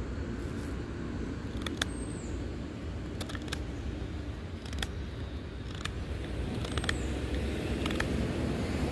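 Pocketknife blade cutting test material, a series of short sharp snaps about a second apart, over a steady low rumble.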